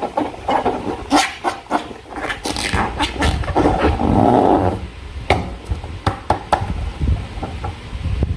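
Slime being squished and worked by hand: irregular wet, sticky clicks and squelches, with a longer squelching stretch about halfway through.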